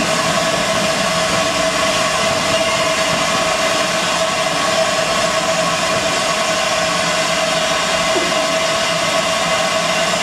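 Passenger coaches of a heritage train rolling past on the track: a steady rushing noise with a constant high tone running through it.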